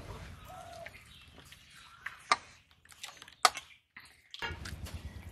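A bird, likely a village hen, calls briefly a couple of times in the first second over a low steady background hum. Two sharp clicks, the loudest sounds, come about two and three and a half seconds in.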